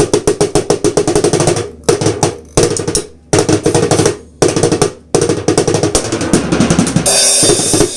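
Rapid runs of tom strokes on a drum fitted with a new Remo Pinstripe batter head and no bottom head, each stroke ringing at the same pitch, broken by short pauses. Deeper drum strokes follow, then a bright cymbal wash about seven seconds in.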